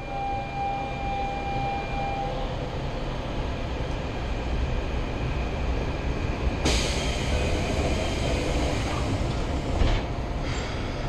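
Train carriage standing still: a steady low rumble, with a high tone that fades out about two seconds in. A loud hiss starts about seven seconds in and cuts off about three seconds later.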